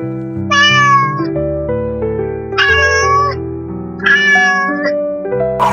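A cat meowing three times, each meow under a second long, over background music.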